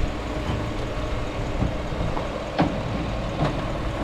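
Heavy engine running as a steady low rumble, with a few short knocks.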